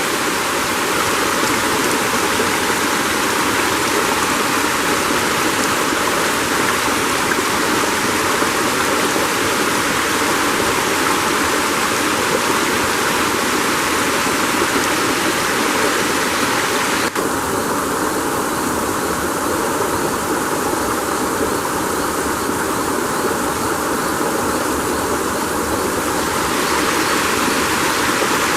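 Steady rushing of flowing water, with a single sharp click about seventeen seconds in.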